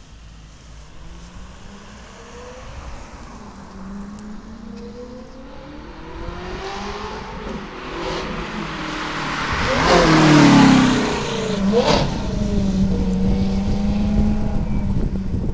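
Ferrari F430's V8 with a de-catted race exhaust revving as the car approaches, growing louder with rising engine pitch. It peaks about two-thirds of the way through, where the pitch drops sharply as it passes, then carries on at a steadier note.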